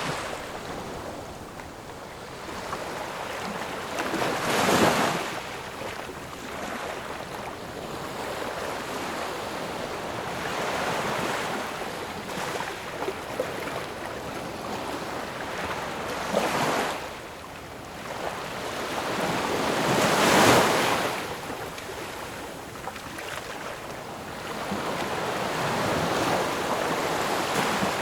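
Ocean waves breaking and washing up on the shore, with a steady hiss of surf between them. Louder breakers come a few seconds apart, the biggest about 5 and 20 seconds in, each swelling and falling away over a second or two.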